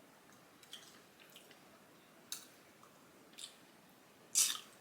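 A person chewing food close to the microphone: a few short, wet mouth sounds over four or five seconds, the loudest near the end.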